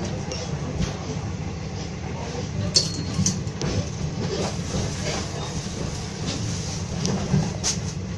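Moving passenger train carriage, a steady low rumble from the running train, with a few sharp clicks and knocks as the fold-down upper sleeper berth is handled, the loudest a little under three seconds in and again near the end.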